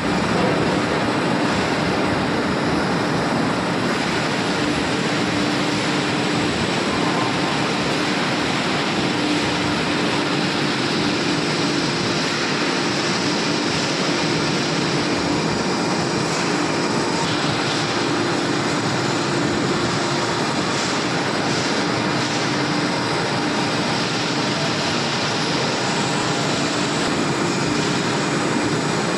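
CNC turning lathe rough-turning a roll: a steady, even machining noise with a low hum running underneath, unchanged throughout.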